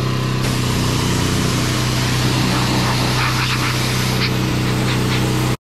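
Pressure washer running and spraying: a steady machine hum under a loud hiss of spray, with scattered brief spatters. It cuts off suddenly near the end.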